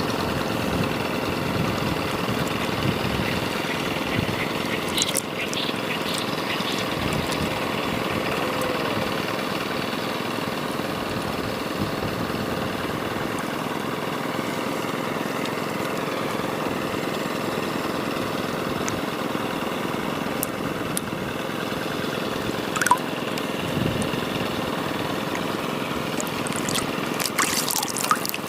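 Steady rush of running, splashing water, with a few faint clicks and knocks.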